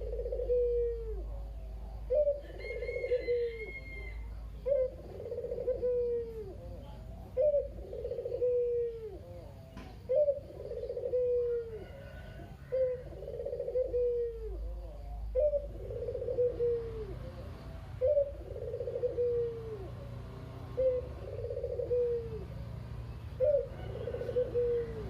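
Domestic ringneck dove (burung puter) cooing in its 'kugeru' style: a short note and then a longer falling coo, repeated about every two and a half seconds, about ten times.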